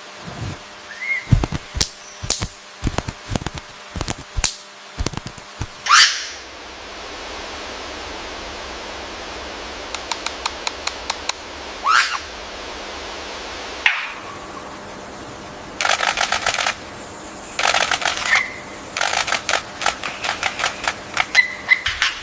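Assorted bird calls: sharp chips and clicks, several rising whistled sweeps, a fast run of ticks, then harsh rattling calls near the end.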